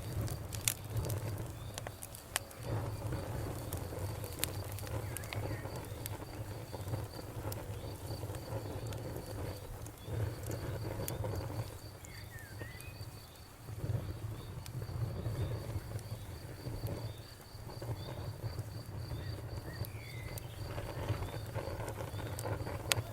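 Campfire burning with scattered sharp crackles and pops over a low rumble that swells and fades. An insect, likely a cricket, chirps in a fast, even high pulse throughout, and a bird gives a few short chirps.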